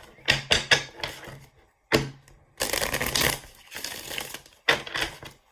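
Tarot cards being shuffled and handled: several short bursts of card noise and clicks with brief pauses between, the longest run about halfway through.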